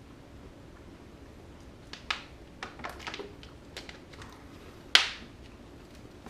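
An Oreo cookie being bitten and chewed: irregular short crunches, the loudest about five seconds in.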